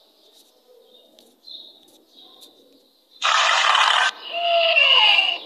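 Faint bird chirping, then about three seconds in a loud animal call: first a harsh rasping burst, then a call that slides down in pitch.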